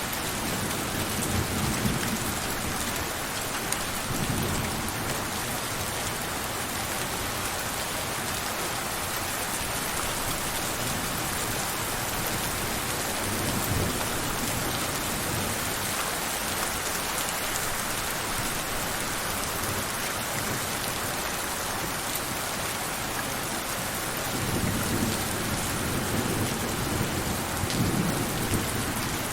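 Steady heavy rain falling, with low rolls of distant thunder at the start, about halfway through and again over the last few seconds.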